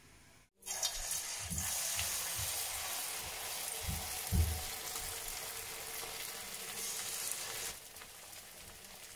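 Battered aubergine slices deep-frying in hot oil in a pan, a steady sizzle that starts about half a second in and eases near the end. A few low bumps come through under the sizzle.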